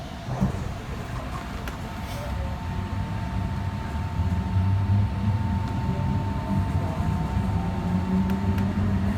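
Inside an Alstom Citadis Spirit light-rail car pulling away from a station: a knock about half a second in as the doors shut, then the running gear's low rumble growing louder as the train gathers speed, with a steady thin whine over it that stops near the end.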